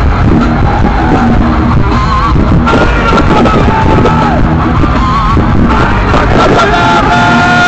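Loud heavy metal played live and recorded through a phone's microphone: distorted electric guitar notes that waver and bend over a dense, pounding low end of bass and drums.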